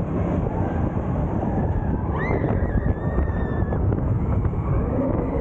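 Low rumble of a moving vehicle, with wind buffeting the microphone. About two seconds in, a thin steady high tone starts and holds for about a second and a half.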